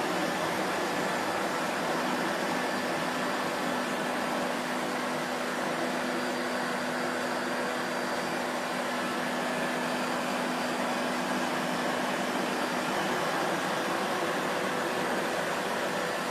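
Vacuum cleaner motor running steadily: an even rushing noise with a faint motor hum under it.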